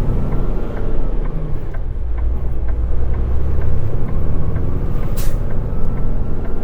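Inside a semi-truck's cab: diesel engine and road rumble, with a turn signal ticking steadily about two to three times a second. A short burst of air hiss comes about five seconds in.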